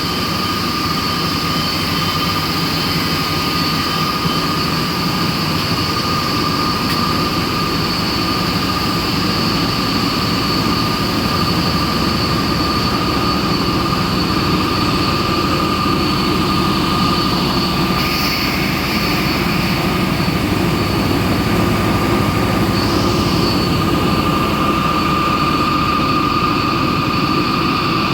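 Wire drawing machinery of a CO2 welding wire production line running steadily: a continuous industrial drone with two constant high whines. The noise gets slightly brighter about two thirds of the way through.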